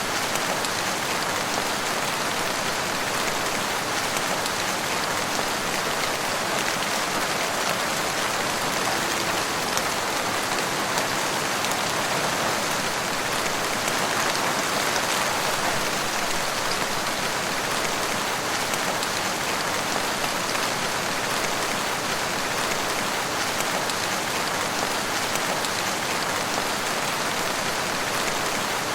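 Steady rain falling in woodland, an even patter of drops on leaves and ground.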